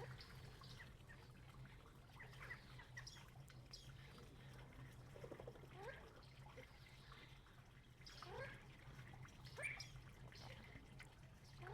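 Faint, scattered bird calls, short chirps and brief rising notes that come and go, over a low steady hum.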